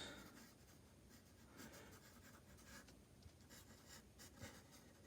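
Faint scratching of a drawing tool on paper: a few soft strokes.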